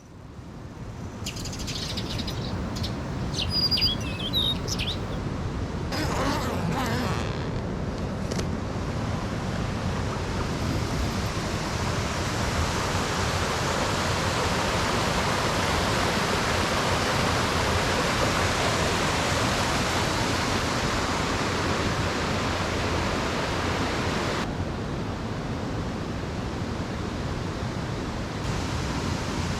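Mountain stream rushing steadily, with a small bird chirping several times in the first few seconds.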